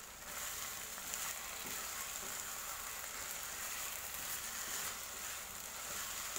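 Green chili balado paste sizzling steadily in hot oil in a wok as boiled eggs are stirred through it, with faint scraping ticks from the stirring.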